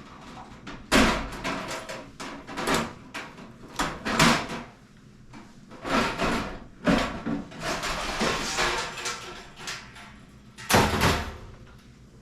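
A boxed diesel heater being unpacked by hand: an irregular run of knocks, scrapes and rustles of the box and its packing, with sharp knocks about a second in and again near the end.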